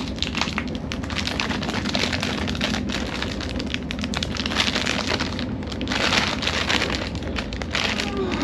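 Steady rumble and rattle of an Indian Railways sleeper coach in motion, with irregular crackling and crinkling of a plastic snack packet being handled and pulled at.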